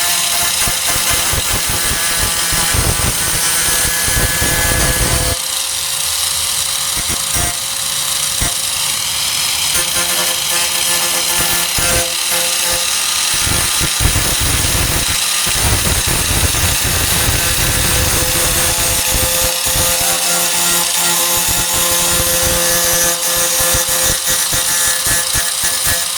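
Handheld 4-1/2 in. angle grinder running steadily with its disc grinding on the sheet-steel tailgate, its whine holding one pitch while the grinding noise underneath rises and falls as the disc bears on the metal.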